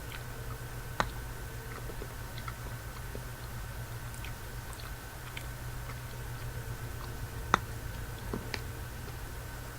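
Close-miked chewing of a chocolate bar, with scattered small wet mouth clicks and two sharper clicks, one about a second in and a louder one near the end. A steady low background hum runs underneath.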